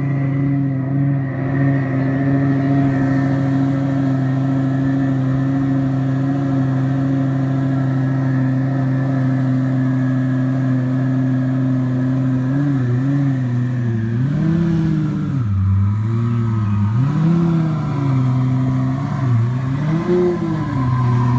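Twin-turbocharged Lamborghini V10 idling steadily just after a cold start. About halfway through it is blipped about five times in quick succession, each rev rising and falling, before it settles back to idle.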